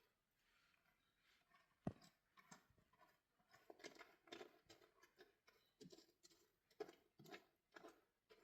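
Faint scattered clicks and rustles, with one sharp knock about two seconds in.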